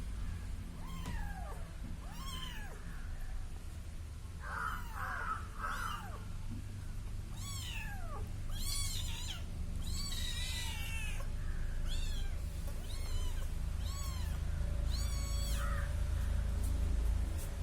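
Kitten meowing over and over, high-pitched calls rising and falling in pitch, about one a second and crowding closer together in the middle, over a steady low rumble.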